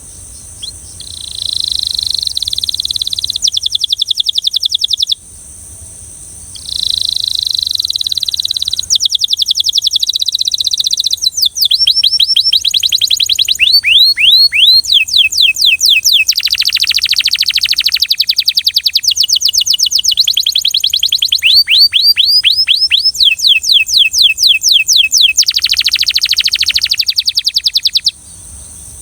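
Belgian canary singing loudly in fast trills of rapidly repeated notes and quick falling sweeps. A short phrase is followed by a pause about five seconds in, then a long, nearly unbroken run of changing trills that stops shortly before the end.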